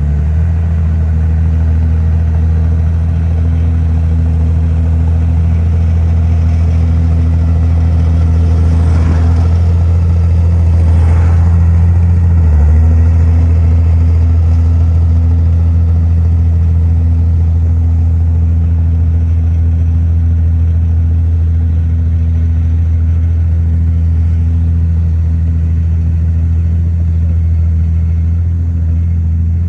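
Large diesel engine of heavy earthmoving machinery running steadily. There is a noisier stretch of rumble and clatter about nine to twelve seconds in, ending in a brief dip in the engine note.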